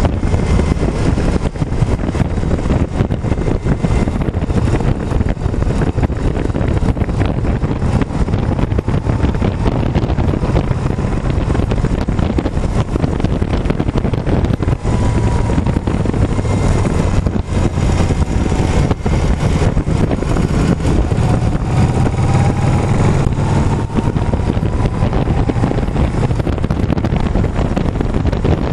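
Motorcycle on the move: engine running under a steady rumble, with wind buffeting the microphone.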